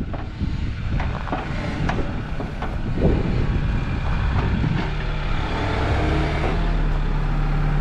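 Bobcat E60 compact excavator's diesel engine running, with several sharp knocks and clanks in the first three seconds. From about five seconds in the engine holds a steady, even hum.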